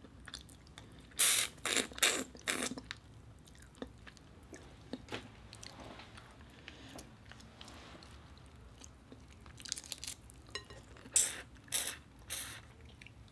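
Close-miked eating of boiled shrimp: chewing, with two clusters of loud wet smacks and sucks, one about a second in and one near the end, and faint chewing between.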